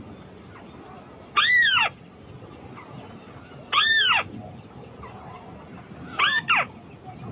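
White-browed crake calling: loud, nasal calls that rise and fall in pitch. There are two single calls and then a quick pair near the end.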